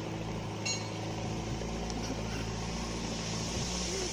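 Excavator's diesel engine running steadily, a low drone with several fixed tones that makes the surroundings noisy.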